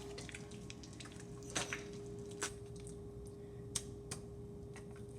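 Soft homemade slime being squeezed and worked by hand, giving a few faint squelches and clicks. A faint steady hum runs underneath.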